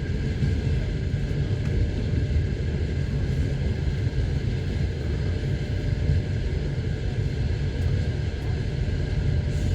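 Steady low rumble of a moving passenger train, its wheels running on the rails, heard from inside the carriage.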